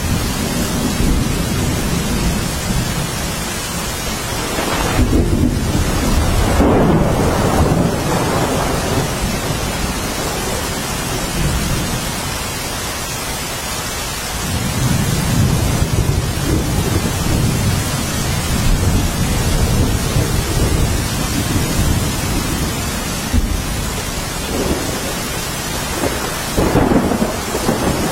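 Steady heavy rainfall with low rolling thunder. The rumbles swell about five seconds in, again around the middle, and once more near the end.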